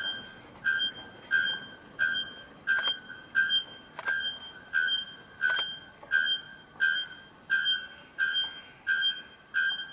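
Bellbird calling: one short, ringing, metallic note repeated evenly about every 0.7 seconds, roughly fifteen times.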